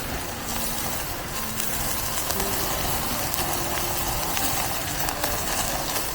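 Pork belly sizzling on a charcoal grill: a steady hiss with many small crackling pops.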